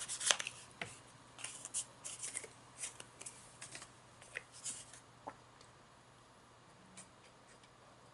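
Paper being handled: crisp rustling and light taps as cards are folded and lined up, for about five seconds, then only a few faint clicks.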